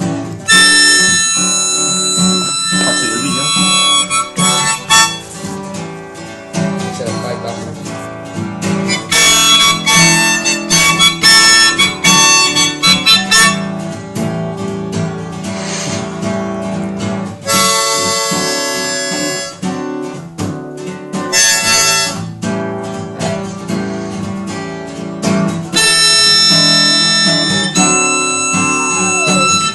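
Blues played on harmonica over acoustic guitar, the harmonica coming in loud phrases of a few seconds at a time above the steady guitar accompaniment.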